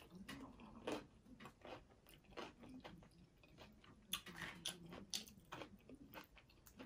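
Faint chewing and crunching of taco salad made with broken taco shells, a run of quick, irregular mouth clicks.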